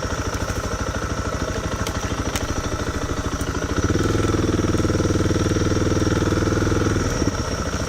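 Honda CRF250L Rally's single-cylinder engine running at low speed with an even beat. About four seconds in it pulls harder and louder for some three seconds, then eases back.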